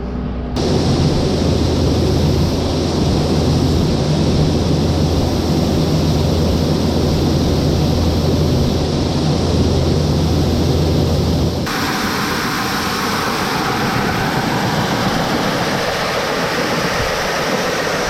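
Tractor engine running steadily under a loud, constant rushing noise. About twelve seconds in, the engine hum drops away abruptly, leaving a brighter rushing noise.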